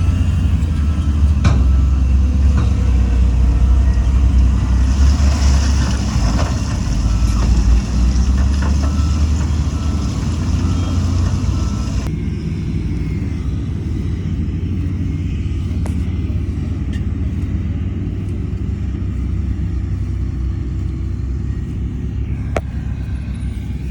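Diesel engines of heavy earthmoving machinery running with a deep, steady rumble that eases a little after about twelve seconds, with a brief hiss about five seconds in.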